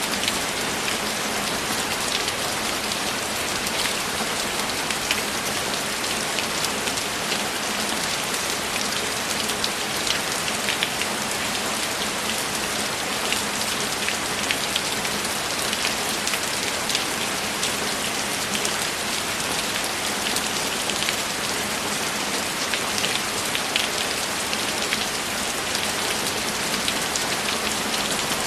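Steady heavy rain: an even hiss with many close individual drops hitting.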